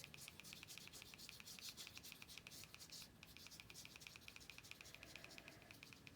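Near silence: faint room tone with a fast, even, high-pitched ticking, about eight ticks a second.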